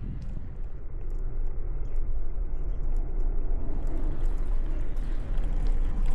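Wind rumbling on the microphone and road noise while riding a bicycle along a city street, with passing traffic. The noise grows a little louder about two seconds in.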